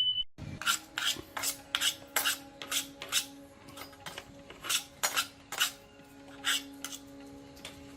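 Hand tools clinking and tapping against metal parts, sharp irregular clinks about two a second over a faint steady hum.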